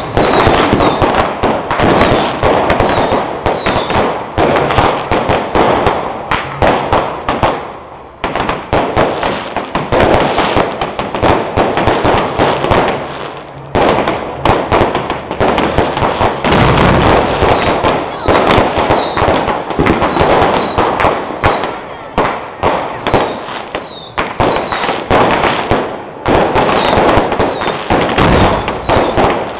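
Dense fireworks barrage: rapid cracks and pops from ground-launched fireworks, with short whistles among them. The barrage thins briefly about eight and again about thirteen seconds in, then picks up again.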